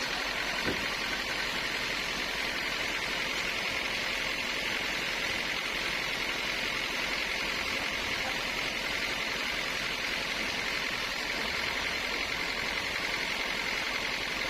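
Sawmill machinery running steadily, an even mechanical hiss and hum that does not change.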